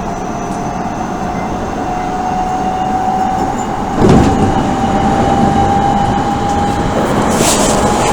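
Odakyu 1000 series electric train with Mitsubishi GTO-thyristor inverter running, heard from inside the car: a steady whine slowly rising in pitch over rumbling running noise as the train gathers speed. There is a sudden loud knock from the running gear about four seconds in, and a few sharp clicks near the end.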